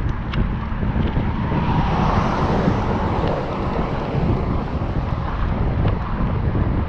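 Wind buffeting a GoPro Hero 7's microphone while cycling: a steady low rumble that swells for about a second some two seconds in, with a few faint ticks.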